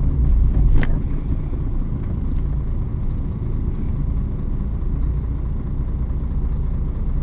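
Steady low rumble of a truck's engine and road noise heard inside the cab while driving, with a single sharp click a little under a second in.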